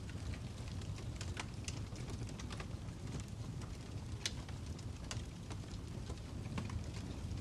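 Fire crackling: irregular sharp pops and snaps over a steady low rumble, the loudest pop about four seconds in.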